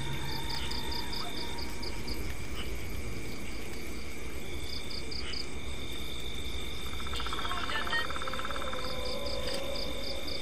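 Night chorus of insects and frogs: steady shrill insect tones run throughout, and a high call pulses about six or seven times a second in three short bouts. A lower buzzing trill comes in about two-thirds of the way through.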